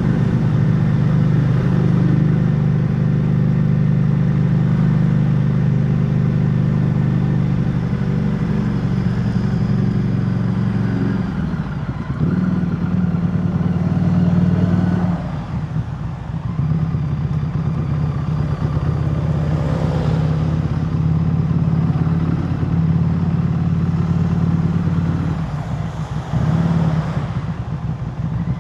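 Harley-Davidson Street 500's V-twin engine running at a steady cruise under the rider, its note dropping away briefly about 12, 15 and 26 seconds in as the throttle eases off. A steady rush of air and road noise runs beneath it.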